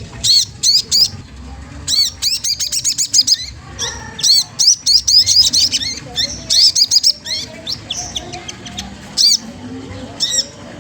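A sogon trotol songbird calling: bursts of high, sharp arched chirps, some run together into quick trills, repeated with short pauses.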